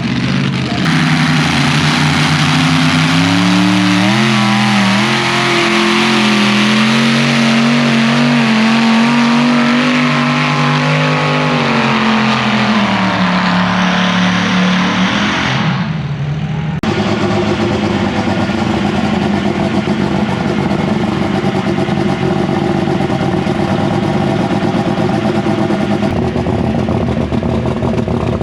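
Turbocharged diesel pulling tractor at full throttle, its engine pitch climbing a few seconds in, holding, then sagging as it is loaded down, with a high turbo whine near the middle. It cuts off suddenly about two-thirds of the way through, and a steadier, rougher engine sound takes over.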